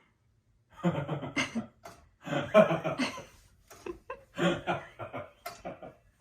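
A person laughing in three main bouts, the first starting about a second in, with shorter bits of laughter near the end.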